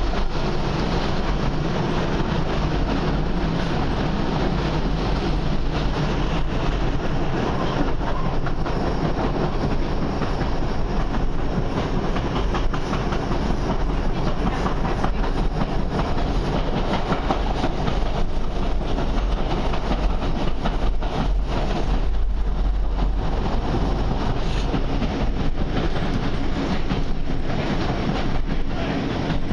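Diesel passenger train running along the line, heard from inside the carriage: a steady running noise of engine and wheels, with frequent clicks as the wheels cross rail joints.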